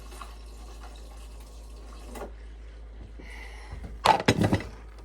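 Liquid pouring or running into a cup, then a quick clatter of several sharp knocks about four seconds in.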